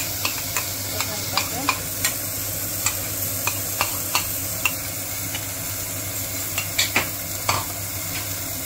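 Onions and green chillies frying in oil in a pot, sizzling steadily, with irregular sharp crackles and pops as the freshly added wet masala paste meets the hot oil.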